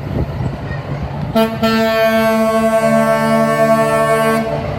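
Big truck's air horn sounding one long blast of about three seconds, with a second note joining partway through, over the low running of the truck's engine.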